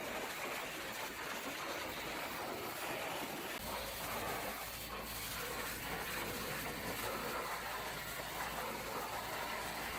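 300-psi pressure washer jet spraying water onto a truck, a steady hiss of spray; a low hum joins about a third of the way in.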